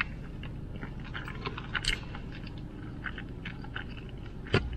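Close-up chewing and mouth sounds of a person eating with her fingers: many small irregular clicks, with a sharper click near the end, over a low steady hum.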